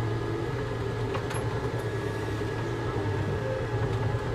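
Volvo skid steer's diesel engine running steadily, with a low, even hum, heard from the operator's cab.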